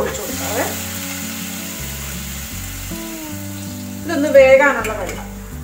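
Chicken pieces sizzling as they fry in a non-stick pan and are stirred with a wooden spatula, under background music.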